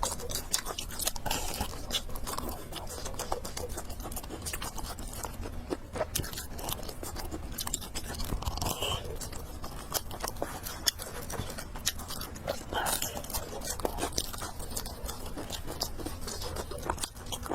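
Close-up eating sounds: a person chewing and slurping fried noodles and biting pork, with many small wet clicks and crunches throughout.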